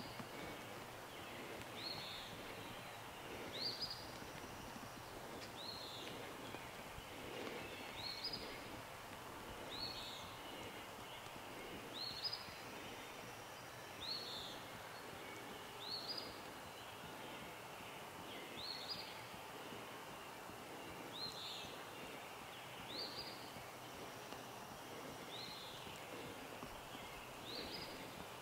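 A small bird repeating a short, high call about every two seconds over quiet rural background.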